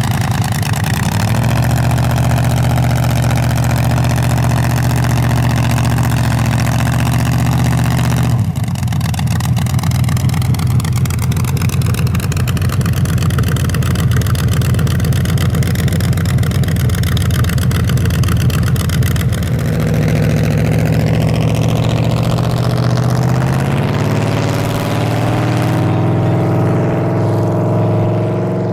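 Race truck's engine running hard at steady high revs for a long stretch, as in a burnout. Its tone shifts about eight seconds in and again about twenty seconds in, and it eases off near the end.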